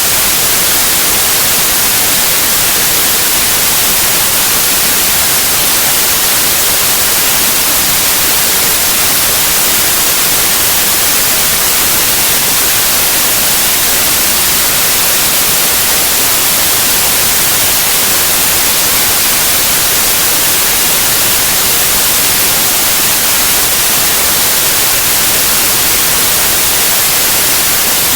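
Steady white noise: an even, unchanging hiss across the whole range, strongest in the high frequencies.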